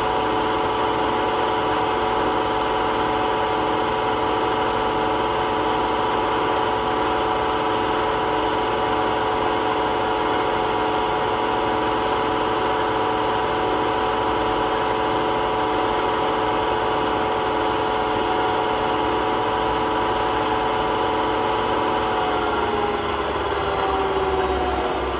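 Hotpoint WMA32 washing machine spinning at high speed with a loud, steady whine and drone from its worn drum bearings. About 22 seconds in the pitch begins to fall as the drum slows down.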